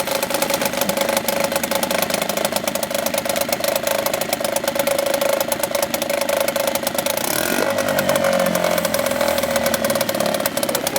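Yamaha 4 hp two-stroke outboard motor running steadily after a cold start, with a brief change in its note about three-quarters of the way through.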